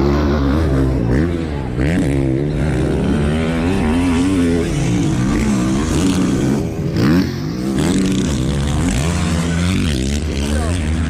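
Several 450cc motocross motorcycles racing together, their engines revving up and falling back over and over through gear changes and jumps. The loudest swell comes about seven seconds in.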